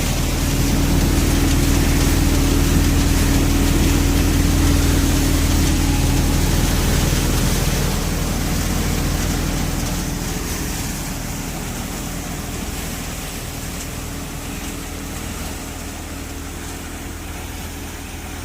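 New Holland 4710 tractor's diesel engine driving a Vardhman multicrop thresher: a steady heavy drone with a hiss over it. It grows gradually quieter through the second half.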